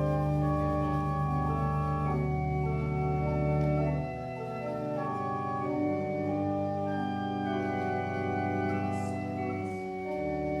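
Church organ playing slow, sustained chords that change every second or two; the deep bass notes drop away about four seconds in.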